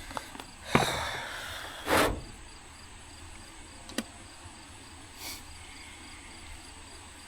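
A clunk followed by a hiss that fades over about a second, a second knock about two seconds in, then a sharp click and a short hiss, over insects chirping steadily in the background.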